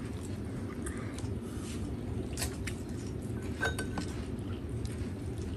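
Eating utensils clinking lightly against a dish while a piece of beef is picked out: a few sharp clinks, the loudest about three and a half seconds in with a short ring. A steady low rumble runs underneath.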